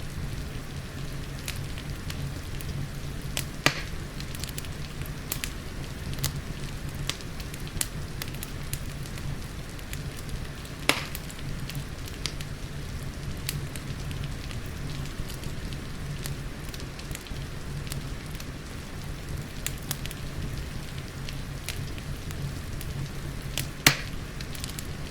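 Fireplace fire crackling with many small sharp snaps over a steady patter of rain. Three louder pops stand out: a few seconds in, near the middle, and near the end.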